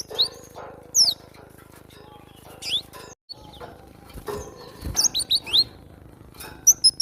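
Cinereous tit (gelatik batu) calling: short, sharp down-slurred chirps in quick clusters of two or three. The sound drops out briefly about three seconds in, and there is a soft low thump near five seconds.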